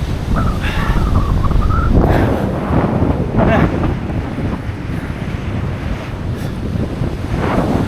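Strong wind buffeting the microphone over surf breaking on the shore, with louder swells about two, three and a half and seven and a half seconds in.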